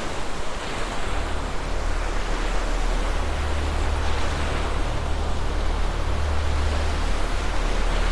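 Steady rushing of heavy surf or floodwater over a constant deep rumble.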